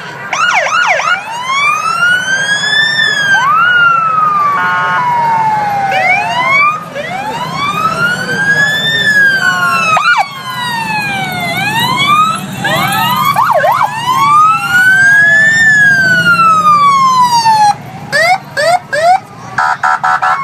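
Emergency vehicle sirens sounding together: a wail siren rising and falling about every six seconds, overlapped by faster yelp sweeps, with a few short horn blasts, the last near the end.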